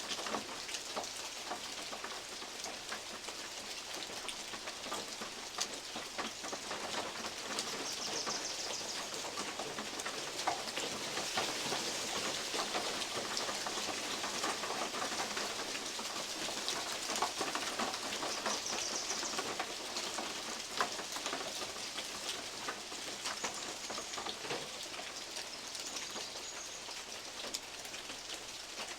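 Steady rain hiss with big drops falling from oak leaves onto a metal roof, many separate sharp taps scattered over the constant patter.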